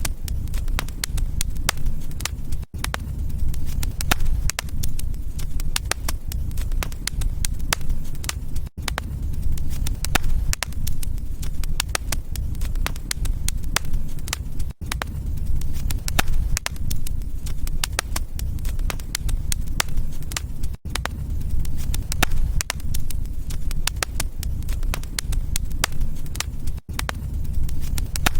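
Wood fire crackling and popping over a steady low rumble of flames, with brief dips in the sound about every six seconds.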